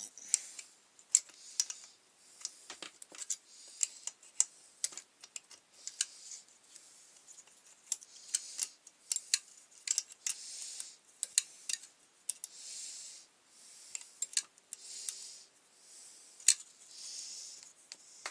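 Irregular small metallic clicks and clinks of a spanner and small parts being handled while the throttle cable assembly is worked loose on a brush cutter, with short scraping or rustling sounds between them.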